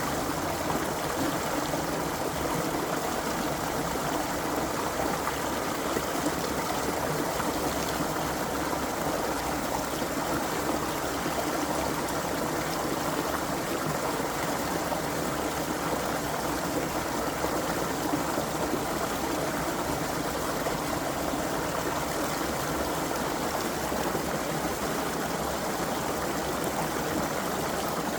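A creek flowing steadily over rocks, an even, unbroken rush of running water with no change in level.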